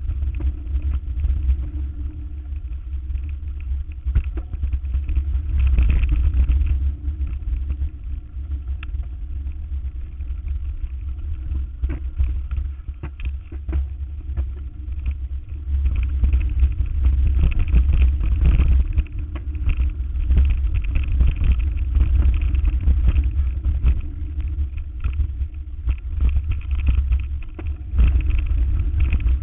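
A vehicle driving, with a steady low rumble and scattered short knocks and rattles throughout.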